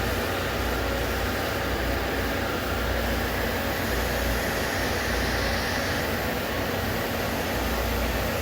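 Steady mechanical hum and hiss of machinery running in a machine shop, like fans or a machine's cooling units, with no change or distinct events.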